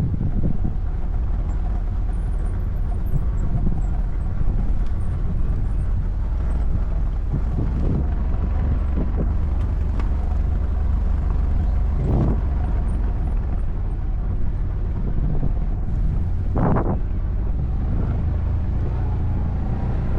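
ATV engine running steadily under way off-road, a dense low rumble with wind buffeting the microphone and a couple of brief louder surges.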